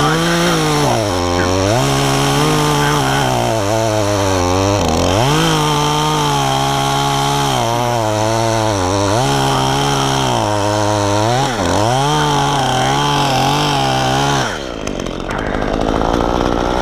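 Efco MT 3600 two-stroke top-handle chainsaw cutting small chunks of maple, revving up to full throttle for each cut and dropping back between them, with one long cut in the middle. It runs a resharpened chain that is missing a tooth. The engine sound cuts out near the end.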